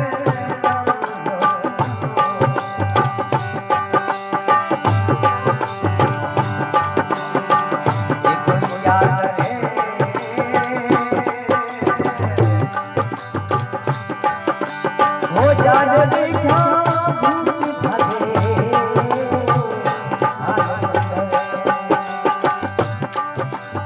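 Instrumental interlude of Rajasthani folk devotional music: a steady hand-drum rhythm under a melodic instrument line.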